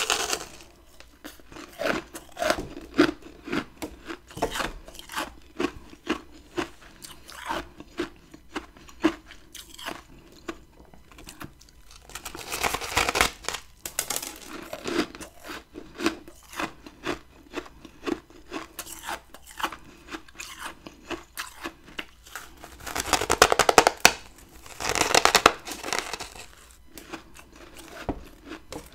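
Close-up crunching and chewing of chunks of freezer frost ice, a steady run of crisp crunches with two longer, louder spells of crunching, about halfway through and again near the end.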